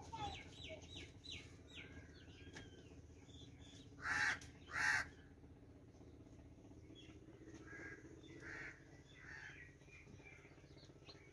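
Birds calling: a quick run of chirps at first, then two loud, harsh calls about a second apart, then softer calls, over a faint, steady, low hum.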